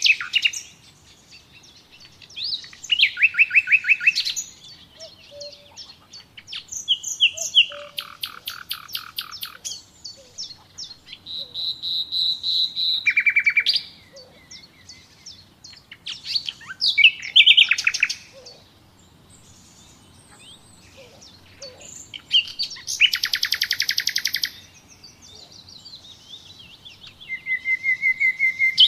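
Wild songbirds singing: a run of short trilled and chirping phrases, each a second or two long, with brief pauses between them. The phrases vary from rapid high trills to buzzy repeated notes and a few clear whistled notes.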